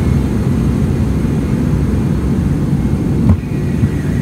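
Cabin noise inside a Boeing 767-300ER in flight after takeoff: a steady low rumble of engines and airflow, with a single short knock about three seconds in.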